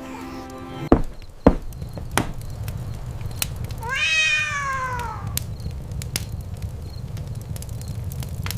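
A cat meows once, a single drawn-out meow that rises and then falls in pitch, about four seconds in. Earlier, about a second in, there are two sharp knocks, and a low steady rumble runs underneath.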